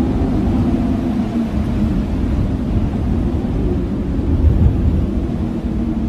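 Blizzard wind: a steady, heavy low rumble with a faint wavering howl over it in the first second or so, swelling briefly about four and a half seconds in.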